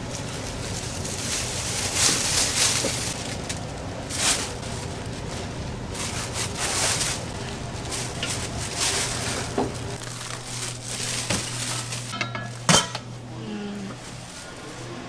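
Kitchen work sounds: dishes, pots and metal utensils clattering and scraping irregularly over a steady machine hum, with one sharp knock near the end.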